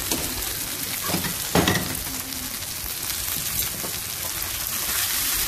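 Minced mutton keema with fried potatoes, tomatoes and onions sizzling in hot oil in a frying pan, a steady hiss. A few short knocks sound about a second and a half in.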